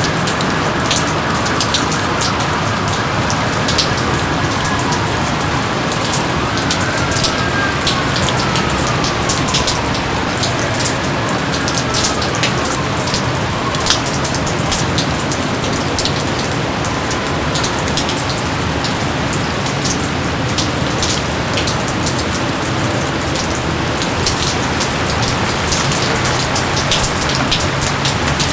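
Steady rain falling, with many separate drops striking close by. A few faint whistles falling in pitch come and go through the middle.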